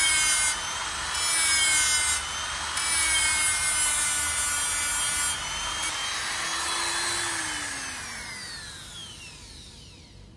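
Die grinder spinning a sandpaper flap wheel against a chrome-plated roller to smooth out micro burrs: a high whine over a sanding hiss that grows and drops several times as the wheel presses on and lifts off. About seven seconds in, the motor is switched off and the whine falls in pitch and fades as the wheel spins down.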